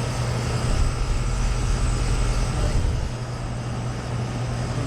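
Outdoor central air-conditioner condensing unit, a Goodman, running with a steady compressor and fan hum. A deeper low rumble joins in from about one to three seconds in.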